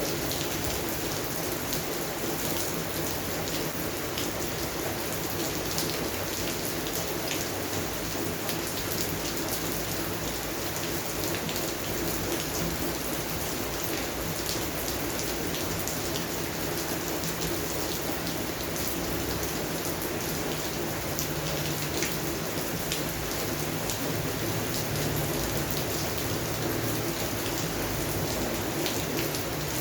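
Steady rain falling on a garden, with many individual drops ticking sharply through the even hiss of the downpour.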